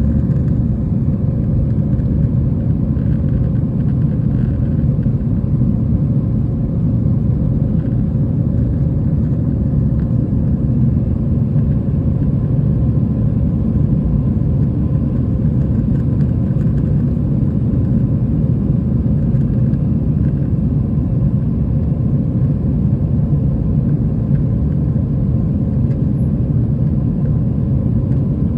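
Steady low drone inside an Airbus A320 cabin in flight: engine and airflow noise, even and unbroken.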